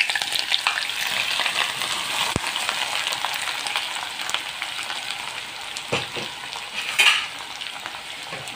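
A large batch of onions frying in hot oil, a steady sizzle. There are two brief knocks about six and seven seconds in.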